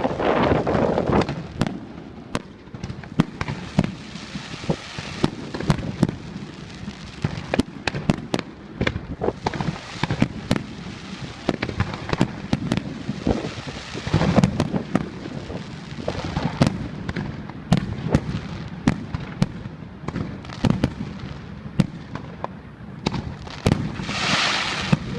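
Fireworks display: a rapid, irregular run of bangs and crackling pops, with denser, louder volleys about a second in and around the middle. A hiss swells up near the end.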